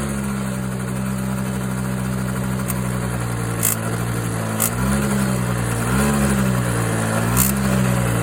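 Honda Super Dio AF27 two-stroke scooter engine idling with a clicking noise, and three brief light throttle blips in the second half. The owner has not found the cause of the clicking and suspects the reed valve, the crank oil seals or the clutch.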